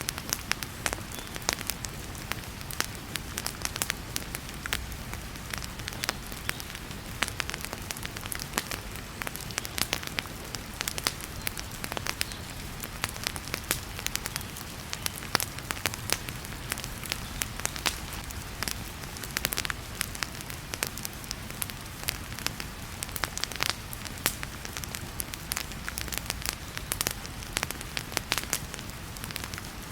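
Wood fire crackling and popping in a fireplace, many sharp pops over a steady hiss, with heavy rain falling steadily beneath it.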